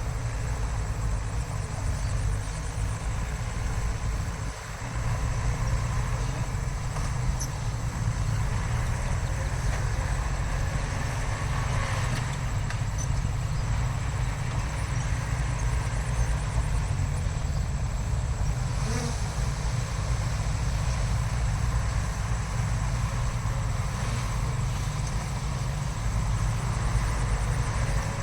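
Heavy diesel earthmoving machinery running steadily with a deep, low rumble, briefly dropping away about four and a half seconds in.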